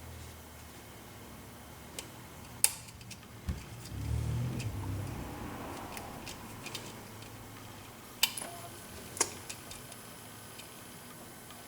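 Sharp metallic clicks and taps of a lock pick and wire tool working the pin stack of a 7-pin Corbin Russwin lock cylinder, trying to set pin 2. There are a few single clicks, the loudest near the start and two more past the middle, and a low handling rustle about four seconds in.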